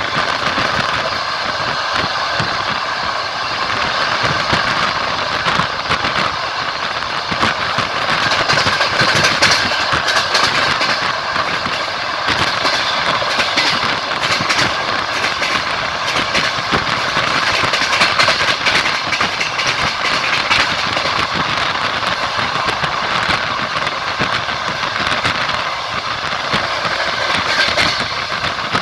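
Passenger train wheels clattering over the rails at running speed: a steady rolling rumble and rush with frequent short knocks and clicks.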